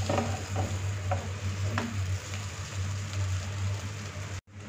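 Potato, cabbage and onion with flour sizzling in oil in a nonstick pot while a spatula stirs and scrapes through them, with a few short scraping strokes in the first two seconds. A low steady hum runs underneath, and the sound cuts out briefly near the end.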